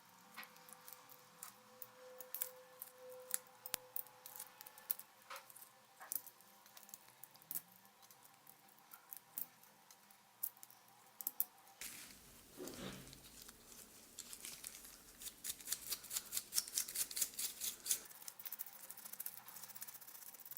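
Light clicks and taps of small blender parts being handled during repair, with a stretch of rapid, scratchy rubbing lasting about six seconds midway.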